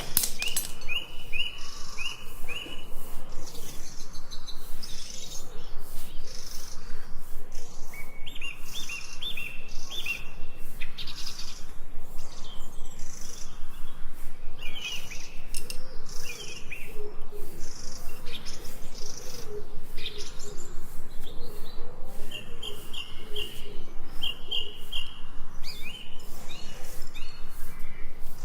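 Birds chirping in runs of short, quick notes, over a fast, regular series of scratchy strokes that goes on throughout.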